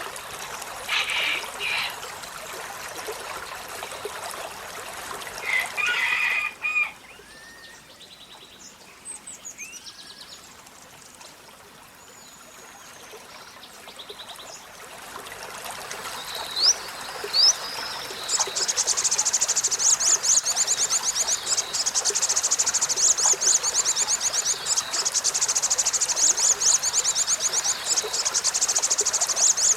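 Olive-backed sunbird calling over trickling water: a few short calls, then two quick rising chirps. About two-thirds in, a loud, fast, high-pitched trill starts and keeps going.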